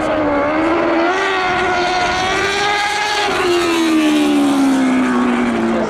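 Lightning sprint car engine running hard at speed, its pitch climbing over the first few seconds, then falling steadily through the second half.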